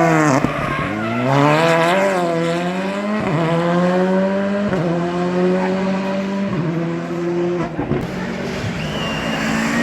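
Rally car engine braking hard at the start, then accelerating away and shifting up through the gears, each shift a sudden drop in pitch, about four shifts in all.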